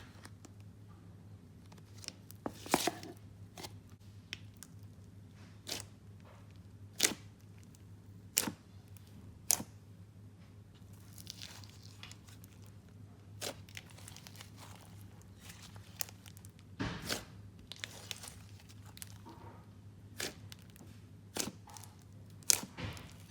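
Hands squishing and stretching a thick layered slime of clear icing slime and clay slime: scattered sharp clicks and pops at irregular moments, over a steady low hum.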